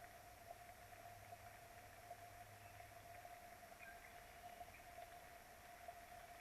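Near silence: a faint steady hiss with one thin, constant tone, and scattered light ticks.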